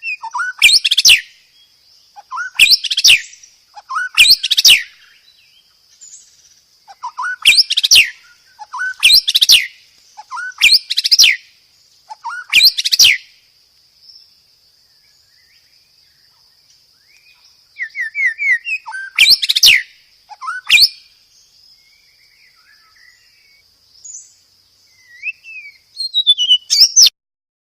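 White-rumped shama (murai batu) song: loud, short phrases of whistles ending in sharp whip-like cracking notes, repeated about every second and a half. After a pause there are a few more phrases, with a faint steady high-pitched tone running behind.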